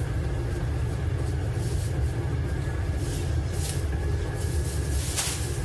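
Steady low mechanical rumble with a faint steady whine over it, and a brief hiss about five seconds in.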